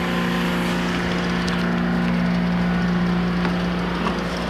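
Diesel locomotive of a passenger train running steadily, with a deep, even engine hum that shifts slightly about four seconds in.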